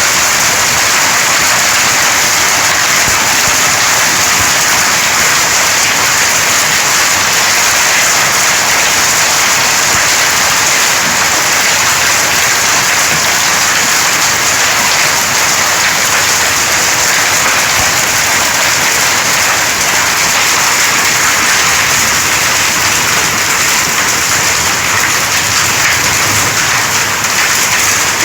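Falling water hissing steadily and loudly, like heavy rain, with no breaks or changes.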